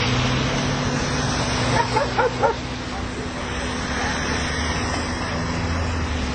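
A dog barking in a quick run of about five short barks roughly two seconds in, over the steady hum of idling vehicle engines.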